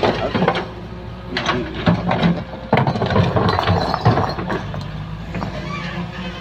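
Excavator diesel engine running steadily under load, with irregular metallic clanks and scraping as the machine cuts and pushes earth; the knocking is densest from about a second and a half in to about four seconds, then eases off.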